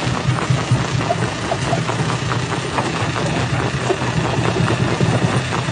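Jaw crusher running under load: a steady low machine hum with scattered knocks and clatter of rock being broken.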